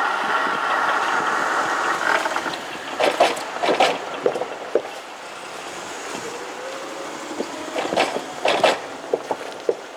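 Kintetsu train running past the level crossing, its rolling noise dying away about two and a half seconds in. Scattered knocks and clacks follow.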